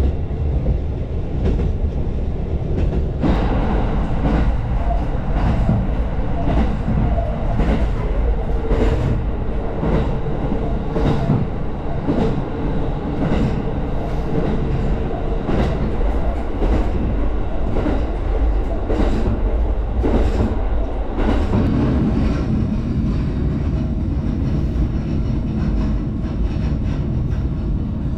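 Diesel railcar running along the track: a steady low rumble with repeated clicks of the wheels over rail joints.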